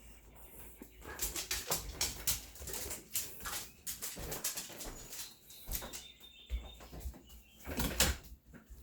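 Irregular knocks, clicks and rustles, a dozen or more, loudest about eight seconds in.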